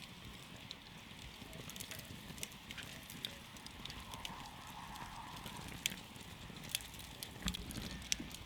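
Campfire burning, with irregular sharp crackles and pops from the burning wood over a low, steady rush of flame.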